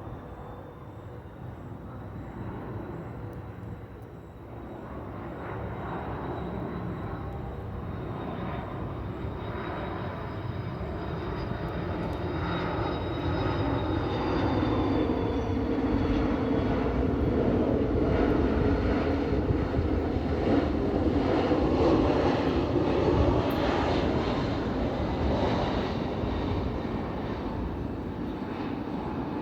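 Airbus A330-200 jet engines running, the sound building steadily to a peak over about twenty seconds, with a faint whine sliding slowly down in pitch, then easing off slightly.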